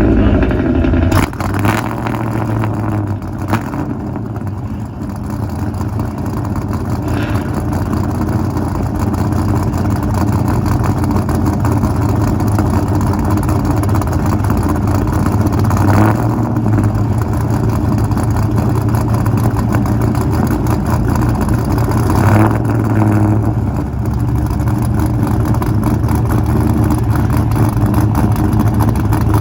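A car engine running steadily at idle, loud and close, with a few brief rises in throttle.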